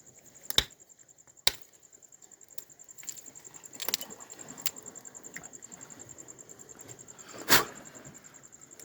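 Crickets trilling steadily in a high, rapid pulse, broken by a handful of sharp clicks or knocks, the loudest about seven and a half seconds in.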